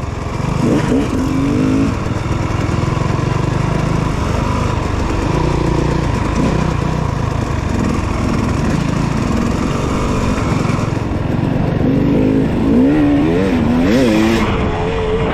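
Dirt bike engine running under throttle, its pitch rising and falling repeatedly as it is revved up and backed off, more so near the end.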